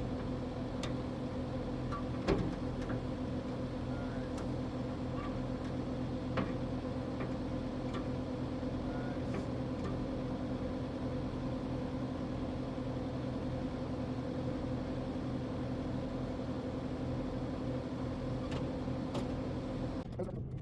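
Kubota SSV65 skid steer's diesel engine idling steadily, with two sharp clicks, one about two seconds in and one about six seconds in. The engine sound cuts off abruptly near the end.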